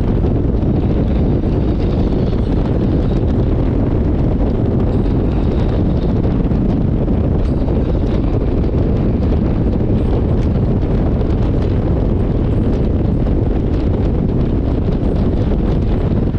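Wind rushing over the microphone on a moving motorcycle: a loud, steady low rush, with the bike's running and road noise underneath.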